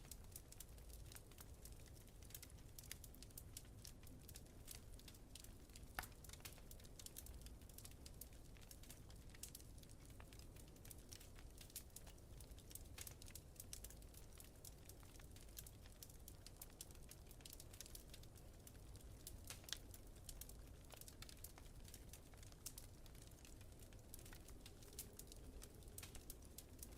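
Wood fire crackling with a steady scatter of small pops and two sharper pops, about 6 seconds and 20 seconds in, over a low steady rumble of blizzard wind.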